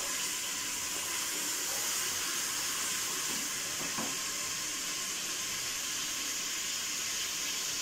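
Chopped onion and ginger-garlic paste sizzling steadily in hot oil as they sauté to light brown, with a single light knock about four seconds in.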